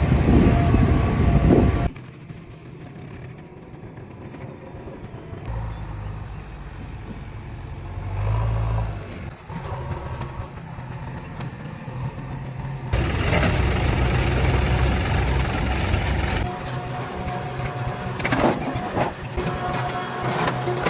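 Heavy diesel vehicle engines running, heard through several spliced clips: the sound changes abruptly about two seconds in, again past the middle, and once more near the end.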